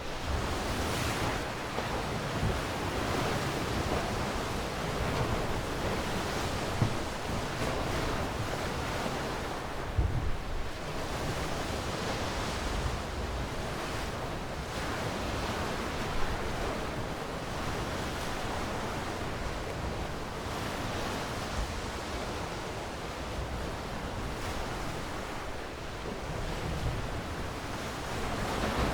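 Ocean waves washing on a shore, a continuous hiss of surf that swells and ebbs every few seconds, with a few brief low thumps.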